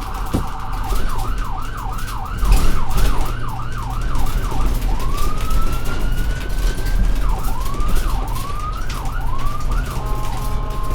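Electronic emergency-vehicle siren running fast up-and-down yelp sweeps, about three a second, that switch to one slow rising wail and then back to the fast yelp. A steady low engine rumble runs underneath.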